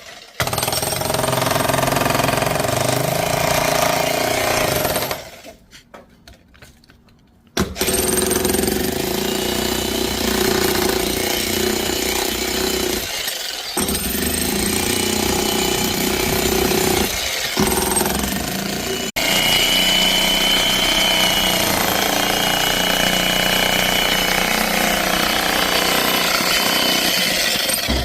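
Electric demolition hammer chiseling in long runs with brief pauses, one of about two and a half seconds about five seconds in.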